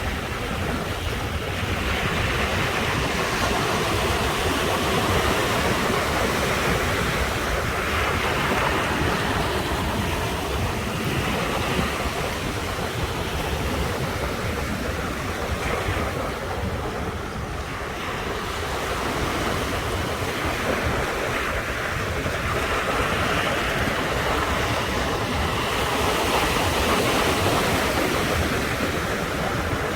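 Sea waves breaking and washing on the shore in a steady surf that swells and eases every few seconds, briefly quieter a little past the middle.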